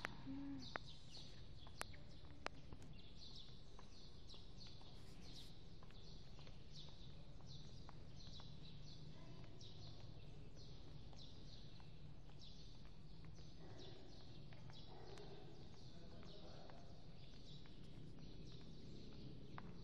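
A small bird chirping over and over inside a large church hall, short high falling chirps at roughly two a second, faint over a low steady room hum.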